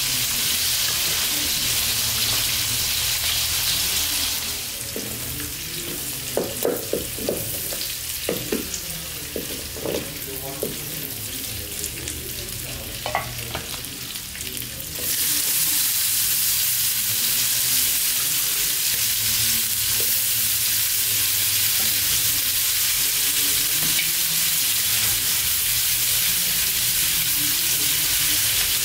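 Oil sizzling in an iron wok as dried fish, green chillies and onion fry. From about four seconds in the sizzle drops and a run of knocks and scrapes comes as the pan is stirred, then the full sizzle returns about fifteen seconds in.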